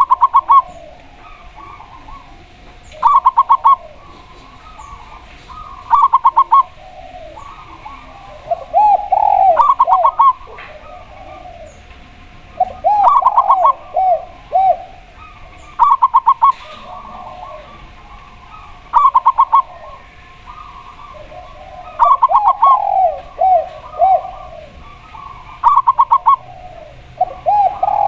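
Zebra dove and spotted dove calling against each other. Short, rapid trilled coos repeat about every three seconds, and a lower, slower series of arched coos comes in between them several times.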